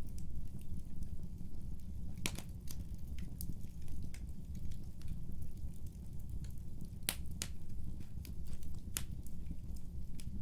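Wood fire in a fireplace crackling: scattered sharp pops, a few of them louder, over a steady low rumble of the burning.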